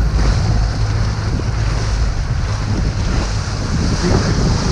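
Canal tour boat running steadily, its engine a low rumble, with wind buffeting the microphone.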